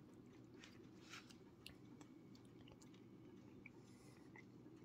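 Near silence: faint chewing, with a few soft clicks of a metal spoon scooping in a plastic food cup over a low room hum.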